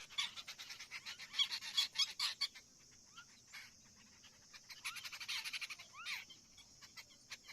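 Common myna chattering in two bursts of quick harsh notes mixed with short rising whistles, over a steady high hiss.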